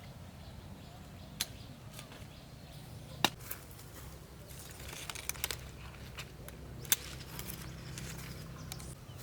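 A few sharp clicks or snaps, the loudest about three and seven seconds in, with a quick cluster in between, over a steady low hum.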